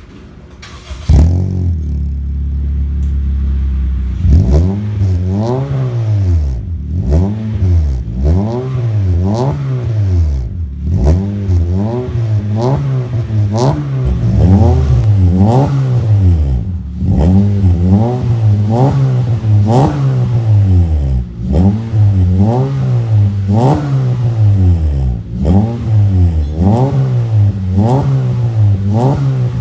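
2024 Honda BR-V's four-cylinder engine breathing through an aftermarket full exhaust system. It comes in about a second in, idles steadily for a few seconds, then is blipped over and over, each rev rising and falling back, about one every second and a half.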